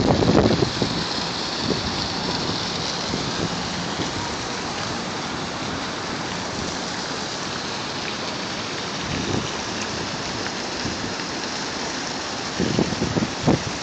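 Fountain water falling and splashing in a steady, even hiss. Wind buffets the microphone in low gusts near the end.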